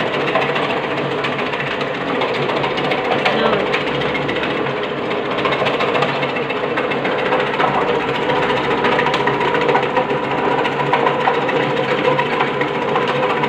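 Motor-driven chip-slicing machine for root crops such as turmeric, ginger and cassava, running steadily with a constant hum and fast ticking.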